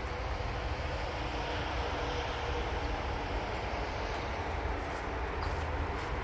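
Steady outdoor rushing noise with a faint hum, even and unbroken throughout.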